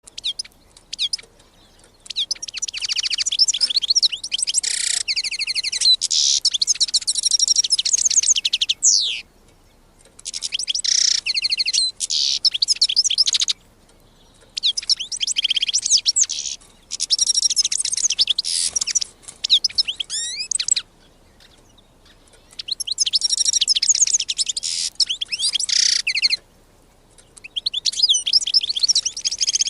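European goldfinch singing: about five long runs of rapid, high twittering notes, separated by short pauses.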